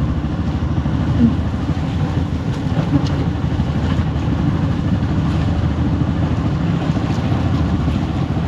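Motorcycle engine running steadily on the move, mixed with low wind rumble on a chin-mounted action camera's microphone.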